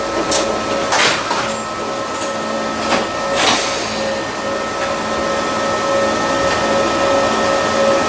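Cabin noise of an Eizan Railway electric railcar running: a steady hum from the motors with wheel-on-rail noise, and a few sharp clicks and rattles in the first half. The noise grows slightly louder from about five seconds in.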